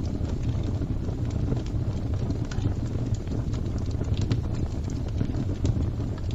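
Fire crackling: a steady low rumble of burning, with irregular sharp pops and snaps.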